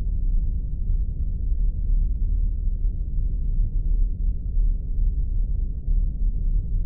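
Spaceship ambience sound effect: a steady, deep rumbling drone with nothing high-pitched in it.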